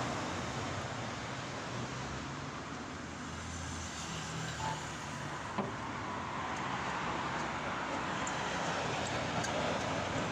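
Steady motor-vehicle noise: a low engine hum under an even road-traffic rumble, with a couple of faint clicks.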